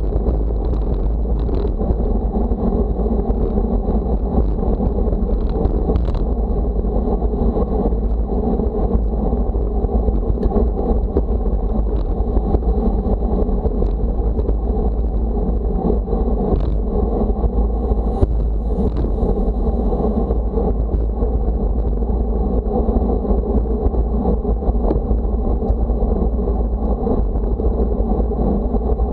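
Steady, loud wind noise rumbling on the microphone, heaviest in the low range, with a faint steady whine and a few light clicks over it.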